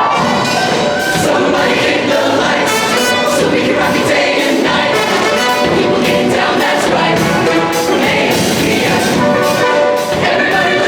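High school show choir singing a pop number in full voice over instrumental accompaniment with a steady beat.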